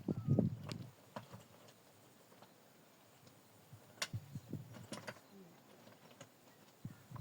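Irregular knocks and clicks: a cluster of soft low thumps in the first second, then scattered sharp clicks about four to five seconds in and again near the end.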